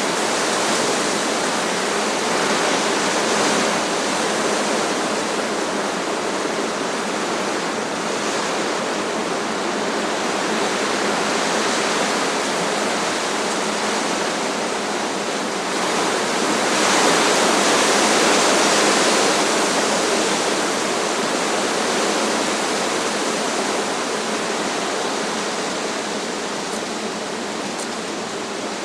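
Strong wind rushing through trees in a continuous roar of rustling noise, swelling in a gust about two-thirds of the way through and easing off near the end.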